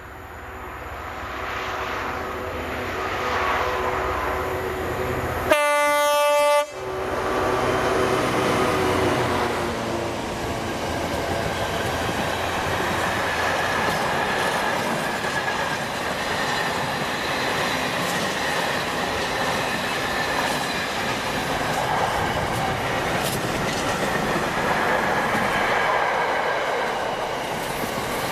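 A train approaches, growing louder, and about five seconds in sounds its horn once, a loud blast of about a second. It then runs past with a steady rumble of wheels on rail and clickety-clack over the rail joints.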